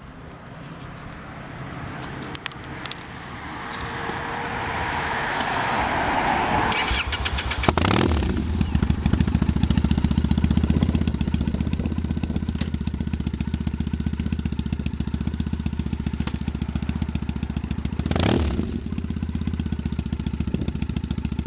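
2005 Triumph Thruxton 900's air-cooled parallel twin, breathing through a one-off short exhaust with stubby cans, fires up about seven seconds in after a rising hiss. It then idles with a steady, rapid exhaust beat, with one brief throttle blip near the end.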